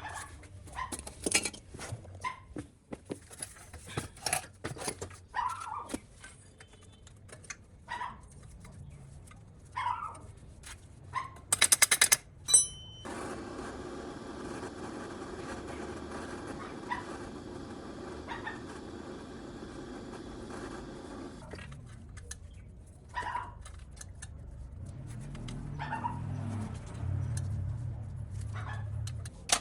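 Short animal calls, repeated at irregular intervals. About twelve seconds in there is a brief, rapid rattling burst, followed by a steady hum lasting about eight seconds.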